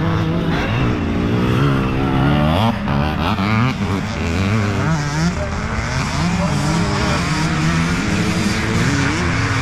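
Several motocross bikes' engines on the track at once, their notes overlapping and repeatedly rising and falling as the riders open and close the throttle and change gear.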